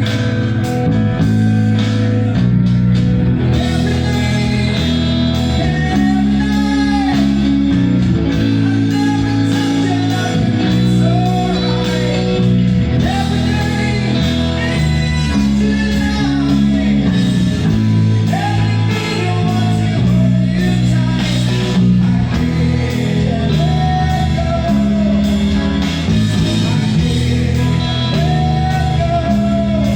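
A band playing a rock song: a singer holding and bending long notes over guitar and bass.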